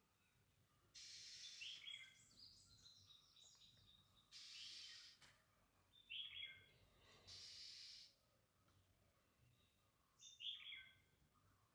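Birds calling: short chirping phrases of quick falling notes, repeated several times. Between them come three harsh, hissing bursts, each about a second long.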